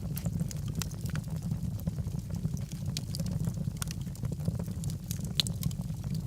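Wood logs burning in a fireplace: a steady low rumble of flame with several sharp crackles and pops a second.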